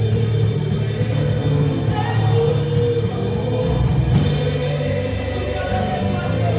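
Worship music with a band: bass and drums under sustained chords, with faint singing, and a cymbal crash about four seconds in.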